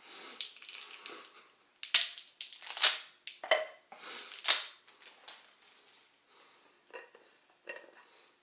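A plastic tub of Talenti gelato being handled with a spoon: a string of sharp, irregular crackling scrapes and clicks.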